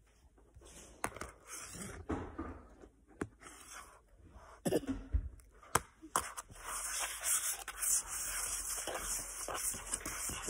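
Close-up eating sounds: chocolate cookies being chewed and crunched, with irregular sharp clicks and crackles that grow denser and steadier in the second half.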